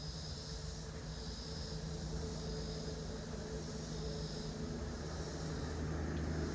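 Insects calling in short recurring spells, over a steady low hum that swells slightly near the end.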